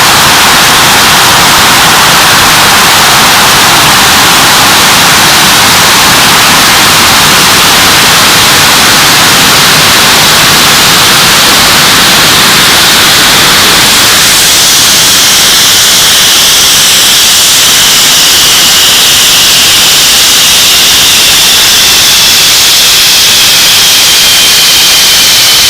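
English Electric Lightning's Rolls-Royce Avon turbojet engine running very loud at high power. About halfway through the low rumble drops away and a high whine comes in and slowly falls in pitch as the engine winds down from power.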